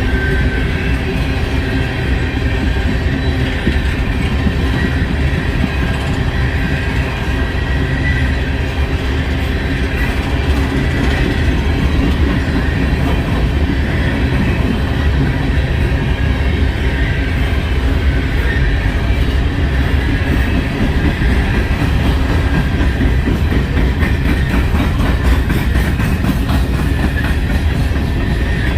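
Freight train cars rolling steadily past on the track: a continuous rumble of steel wheels on rail.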